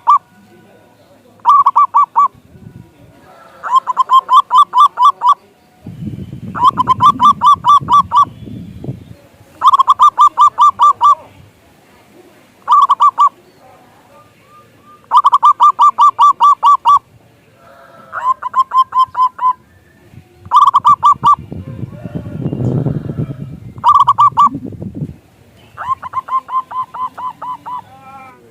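Zebra dove (perkutut) singing its song over and over: short phrases of quick staccato cooing notes, each phrase lasting a second or two, with brief pauses between them. A low rumbling noise runs under the song twice.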